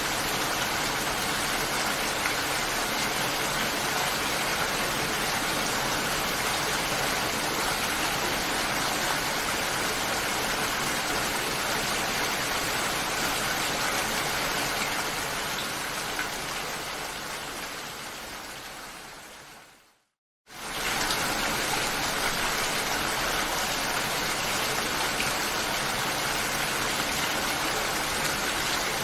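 Steady rain, an even hiss of falling water that fades away over about five seconds two-thirds of the way in, goes silent for half a second, then comes back suddenly at full strength, as at the seam of a looped recording.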